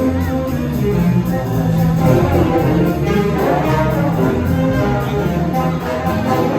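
High school jazz big band playing, with the brass (trumpets and trombones) carrying full sustained chords over a low bass line.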